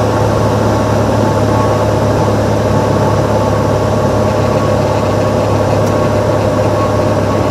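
Cessna 182's piston engine and propeller running steadily in flight, a loud constant drone whose pitch holds level throughout.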